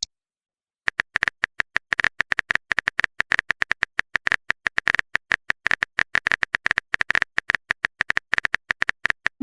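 Rapid, unevenly spaced clicks of a phone's on-screen keyboard as a message is typed, starting about a second in.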